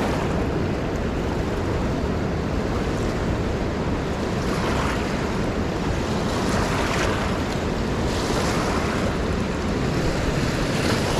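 A raging river rushing and splashing close by: a steady, loud rush of water with small surges.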